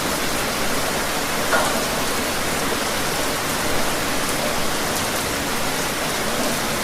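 Steady rain falling: an even, dense hiss with a few individual drops ticking through it, and one slightly louder splash about a second and a half in.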